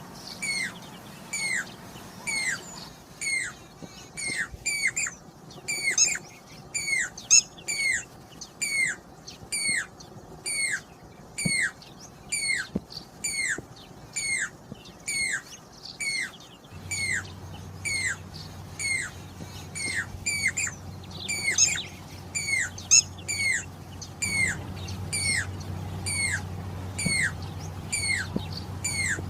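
Jacobin cuckoo (pied crested cuckoo) calling: a steady series of loud, clear whistled notes, each slurring sharply downward, about one and a half a second. In a couple of stretches the notes come quicker and overlap.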